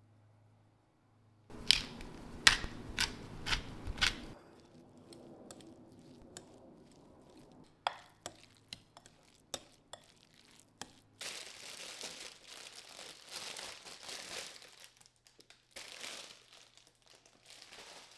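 Kitchen food-preparation handling sounds, no speech. About two seconds in come about five sharp taps in quick succession. Scattered clicks follow, then stretches of crinkly scraping and rustling.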